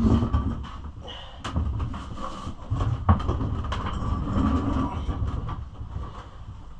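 Irregular low rumbling with scattered clicks and knocks, the sound of something being moved and handled.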